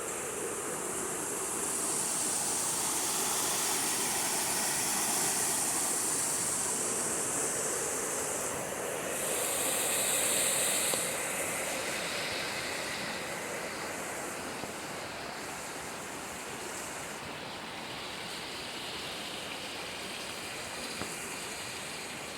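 Steady rushing of running water, with a high hiss over it that swells and drops away several times, loudest about halfway through.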